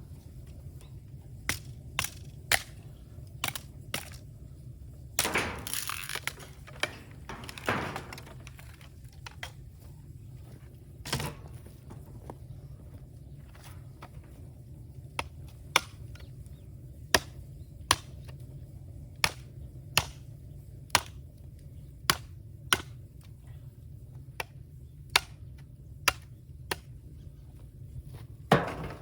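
Bamboo cracking: a string of sharp, irregularly spaced cracks and pops over a low steady rumble, with a few longer, ragged cracks about five, eight and eleven seconds in.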